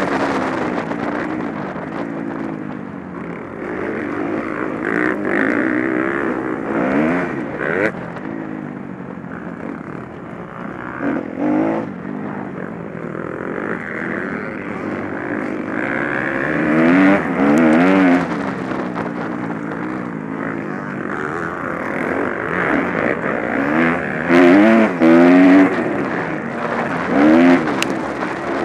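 Motocross motorcycles racing, their engines revving up and down again and again as riders go through the course. The engines come through loudest about halfway through and again near the end.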